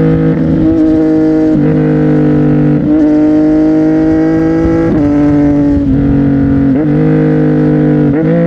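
CFMOTO 675NK inline-triple engine running through a titanium exhaust, held at fairly steady revs. The pitch rises slightly and then dips or steps every second or two.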